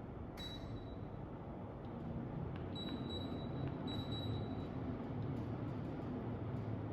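AUX ASW-18JAR4 mini split indoor unit beeping three times, short high beeps as it takes remote commands, over a steady air rush and low hum that grows louder about two seconds in as its fan picks up at a cold start.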